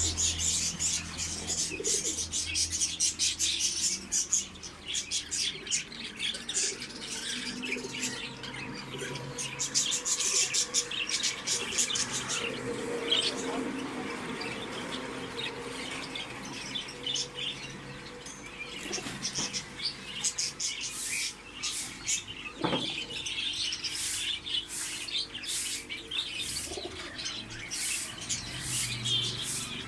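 Many small pet birds in a bird house chirping continuously, a busy overlapping chatter of short high calls, with wings fluttering now and then.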